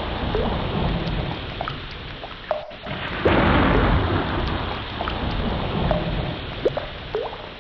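Ocean waves washing in a steady rush that swells and eases, dipping briefly about two and a half seconds in, with a few short rising squeaks and sharp clicks scattered through it.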